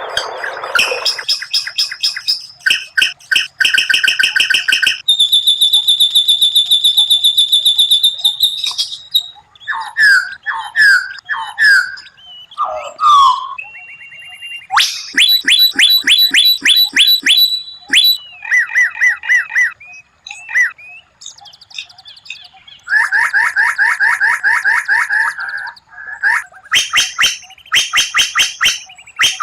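White-rumped shama (murai batu) singing a varied song. It delivers fast rattling trills and a held buzzy trill, then a few short slurred whistles about ten seconds in, then rapid runs of sharp ticking notes, with brief pauses between phrases.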